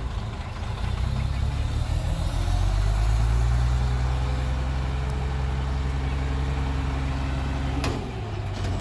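Heavy diesel engine of a large earth-moving machine, revving up about a second in and then running steadily at raised revs with a deep drone. Near the end comes a short sharp knock, and the engine note drops back.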